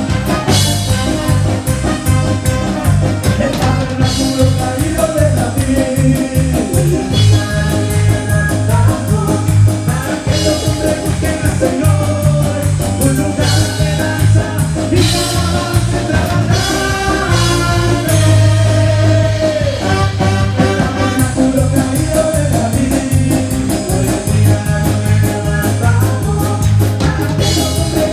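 Live band playing upbeat Latin-style praise music, with a drum kit keeping a steady beat under bass and a sung melody.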